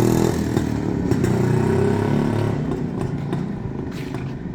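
Yezdi Classic motorcycle's two-stroke single-cylinder engine running. It is loudest at the start, then its note becomes rougher and fades, growing quieter from about two and a half seconds in, with a few sharp clicks.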